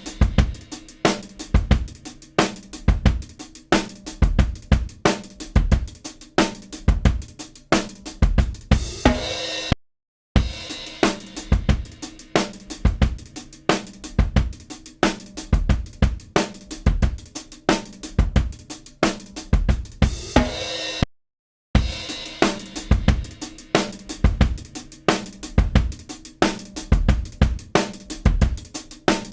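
Recorded acoustic drum kit groove (kick, snare, hi-hat and cymbals) played back through a compressor. The same short loop is heard three times, broken by brief silences about ten and twenty-one seconds in, each pass through a different compressor: a dbx 160A, a Symetrix 501 or a dbx 160 plugin.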